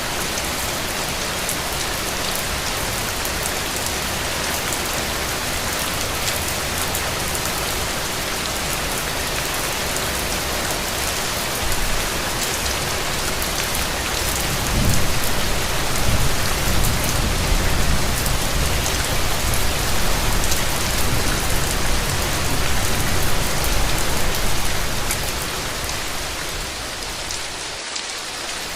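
Steady rain falling on a hard surface, an even hiss. From about halfway a deeper low rumble swells under it, then eases off near the end.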